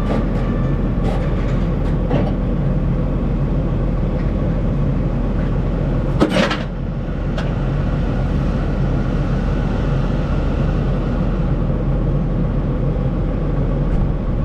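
Steady rumble and hiss of a large vehicle in motion, with a strong low hum throughout and one sharp click about six seconds in.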